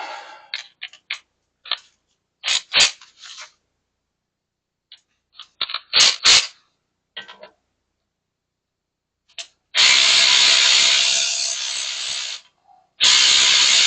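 Metal tools clinking and clicking in short, scattered knocks, then a power tool running in two loud bursts, the first about three seconds long and the second about a second and a half.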